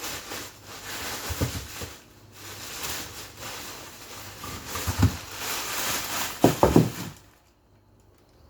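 Plastic bags of frozen food rustling and crinkling as they are handled and taken out of a freezer, with a few knocks of items being set down, the last a quick cluster of knocks before it goes quiet.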